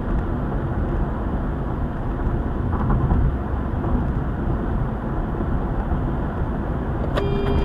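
A moving car's steady road and engine rumble. Near the end a steady pitched tone with overtones comes in.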